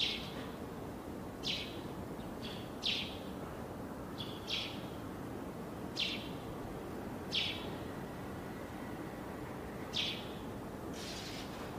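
A bird repeating a short, high call note about every second and a half, over steady background noise.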